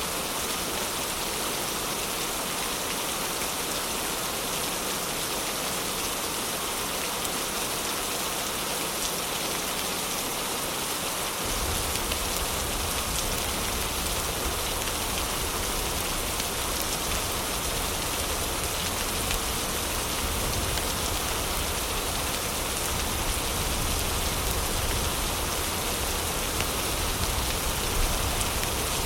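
Heavy rain falling steadily, a dense even hiss. About a third of the way in, a deep low rumble comes in suddenly underneath and stays.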